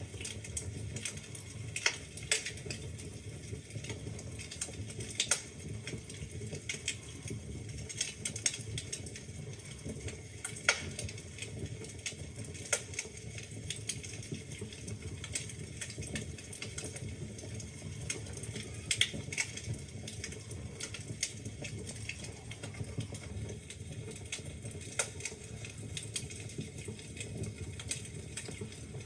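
Wood fire burning in a fireplace: irregular sharp crackles and pops over a steady low rumble from the flames.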